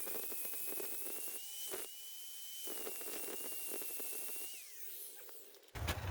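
Angle grinder grinding thick steel: a steady whine over gritty crackle with brief lifts off the work, then the motor is switched off and its whine falls away about five seconds in.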